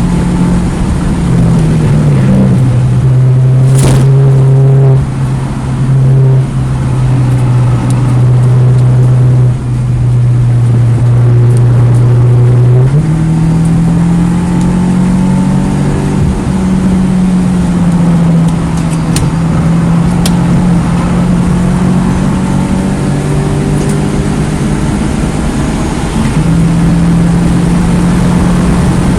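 2009 Mini Cooper S's turbocharged 1.6-litre four-cylinder engine running hard on track, loud and steady. Its pitch drops about two seconds in, holds for some ten seconds, then climbs and rises and falls as the car is driven.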